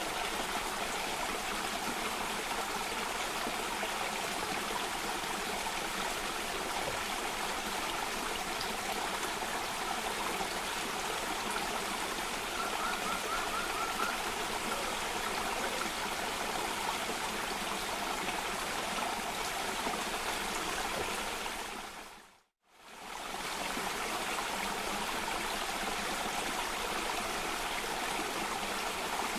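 Cascading stream water running steadily, an even rushing hiss. About 22 seconds in it fades down to silence for under a second and fades straight back up.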